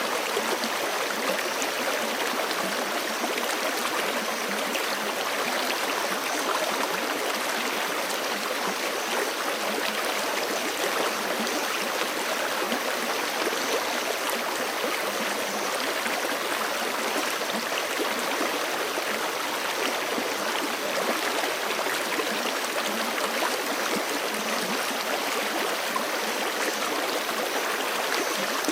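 Forest stream running steadily over rocks, an even rushing and gurgling of water that does not change.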